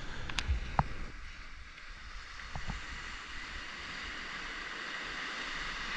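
Steady wash of ocean water, a hiss of surf, with a few faint clicks in the first few seconds.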